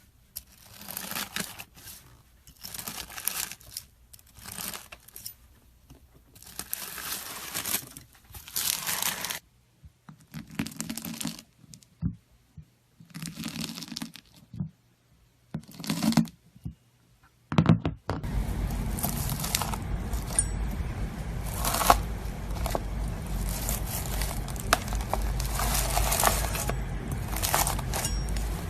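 A knife cutting through crunchy slime: a series of separate crunching strokes, each about a second long. About two-thirds of the way in, the recording changes and the strokes go on over a steady low hum.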